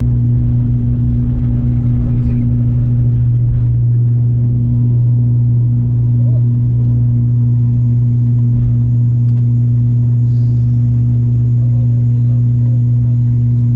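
Propeller airliner heard from inside the cabin: a loud, steady drone with a deep hum that holds one pitch.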